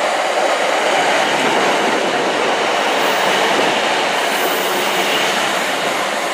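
Class 150 Sprinter diesel multiple unit moving through the station: a steady, loud mix of its underfloor diesel engines and wheels running on the track.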